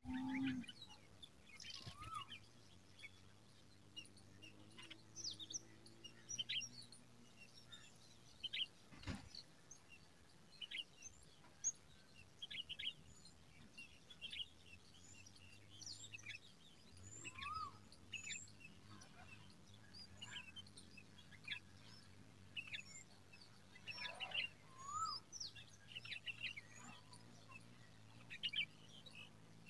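Small birds chirping: many short, high chirps scattered throughout, with a few lower whistled notes that rise and fall, over a faint low hum. A single sharp knock about nine seconds in.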